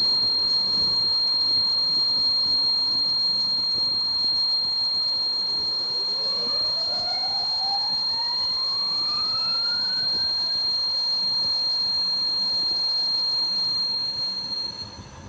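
A machine running with a steady high-pitched whine over a noisy hiss; about six seconds in a second tone rises steadily in pitch for several seconds, and near the end the sound drops away.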